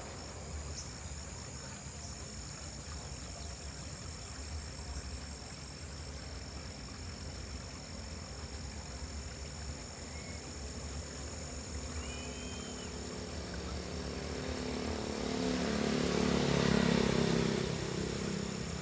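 Steady outdoor ambience with insects buzzing in a constant high drone and a couple of short chirps midway. Near the end a motor vehicle, likely a motorcycle, passes, its engine swelling to the loudest point and then fading.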